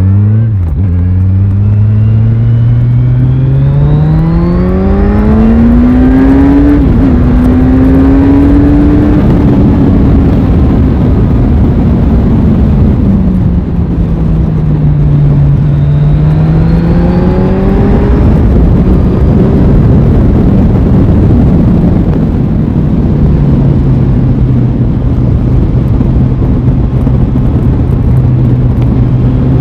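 Aprilia Tuono 660's parallel-twin engine under way, pitch rising steadily as it accelerates for the first several seconds, then falling away as the throttle eases. It pulls up again briefly in the middle and then settles to a steady, lower cruising note.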